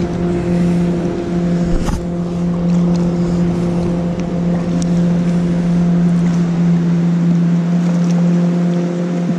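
A boat's motor running at a steady pitch, a constant hum over the rush of river water.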